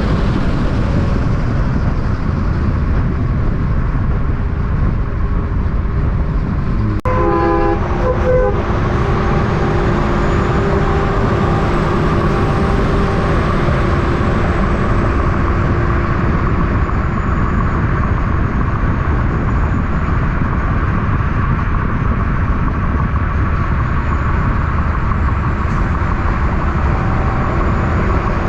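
Steady, loud road noise from heavy trucks and traffic passing, with a brief horn blast about seven seconds in.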